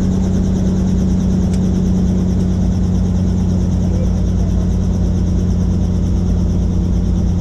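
Helicopter in flight: the steady drone of the turbine and rotors, with a strong low hum that holds level throughout.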